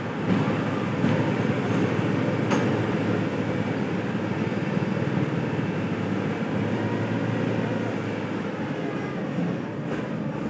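Heavy vehicle running with a steady low rumble, consistent with a crane towing a truck.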